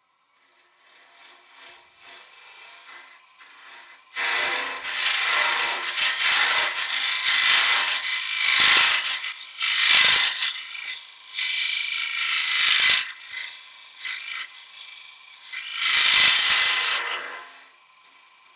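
Wood on a spinning lathe being worked by a tool or abrasive, a loud rasping in several long strokes that starts about four seconds in and stops near the end.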